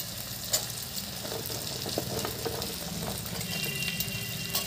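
Masala with peas and paneer sizzling in a kadhai with a steady hiss, while a wooden spatula stirs it and clicks against the pan a few times.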